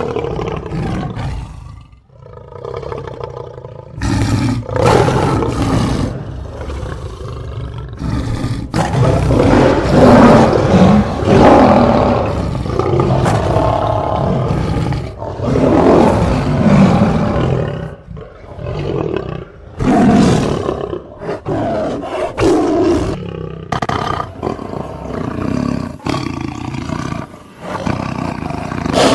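Big cats roaring: a series of loud, deep roars broken by short pauses.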